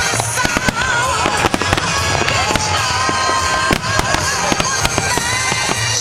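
Fireworks display: aerial shells bursting in rapid succession, a dense run of sharp bangs, with music playing behind.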